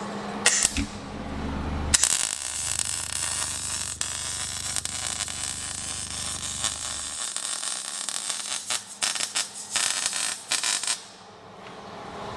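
MIG welding on steel exhaust tubing: one continuous weld run starting about two seconds in, then a string of short tack-weld bursts from about eight seconds, stopping near the end.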